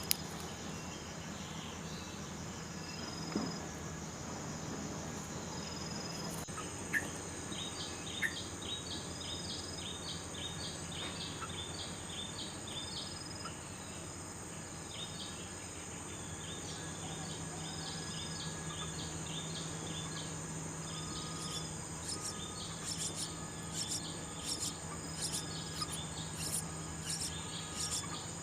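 A steady high-pitched insect drone from crickets, with a small bird chirping in quick, short repeated notes over it from about a third of the way in and more busily near the end. A few sharp clicks stand out briefly.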